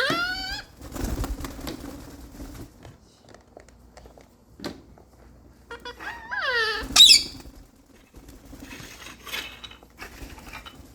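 Pet parrot calling: a short rising-and-falling squawk at the start, then a longer, shriller call about six seconds in that ends in a sharp high squeal, with softer noises between.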